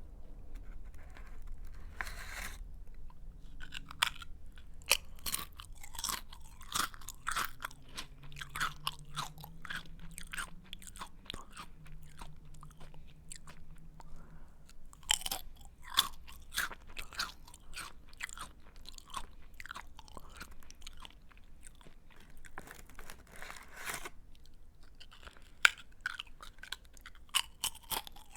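Close-up chewing of a crunchy snack: irregular crisp crunches and crackles, with a few longer grinding crunches.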